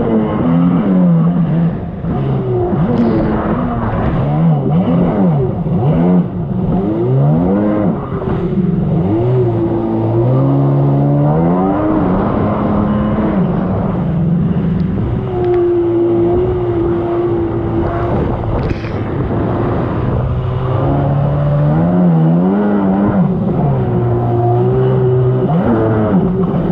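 1999 Sea-Doo XPL personal watercraft's two-stroke engine running under a rider's changing throttle, its pitch rising and falling again and again, with a couple of steadier stretches near the middle and near the end.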